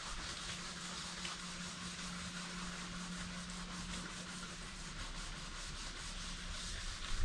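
Sanding: abrasive paper rubbing steadily and continuously on a surface, an even rasp with a low steady hum beneath it.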